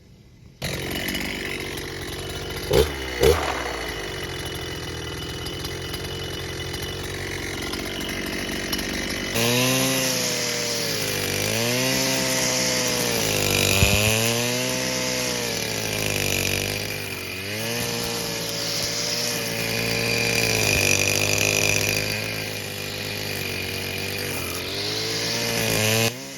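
Stihl FS 250 two-stroke brush cutter running with nylon trimmer line while cutting grass, with two sharp knocks about three seconds in. From about ten seconds in, the engine speed rises and falls again and again as it works.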